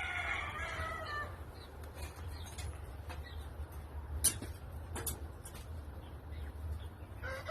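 A rooster crowing, the call trailing off in the first second or so, then a low steady hum with two faint clicks; another crow starts right at the end.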